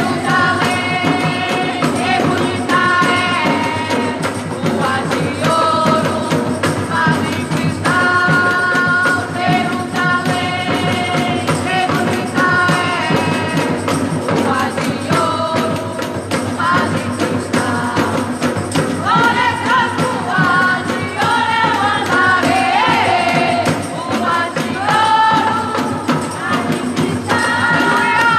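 Gospel worship band playing a song, with voices singing the melody over a steady percussion beat.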